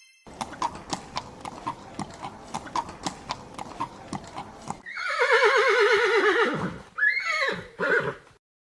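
Horse hooves clip-clopping in a quick, even beat for about four seconds, then a loud whinny with a quavering, falling pitch, followed by two shorter calls near the end.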